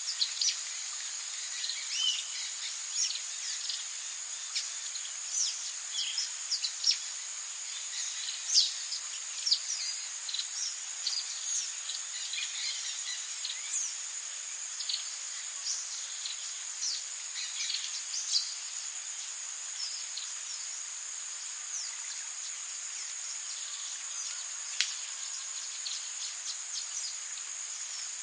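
Tropical rainforest ambience: a steady, high insect drone with many short, quick chirping calls layered over it. The calls are busiest in the first two-thirds and thin out toward the end, with one sharp downward call near the end.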